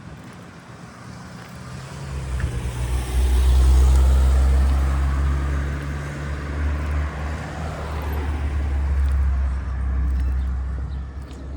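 A motor vehicle passing close with a low engine drone: it builds about two seconds in, is loudest around four seconds, and fades near the end.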